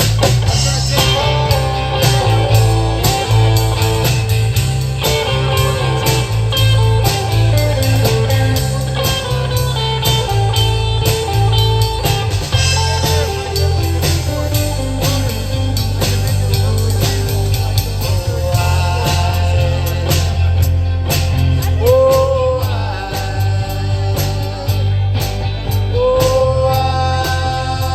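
Live band playing an instrumental break: a lead guitar line with bent notes over bass and drums.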